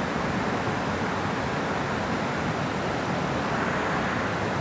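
Steady rush of water flowing at a dam, an even, unbroken noise.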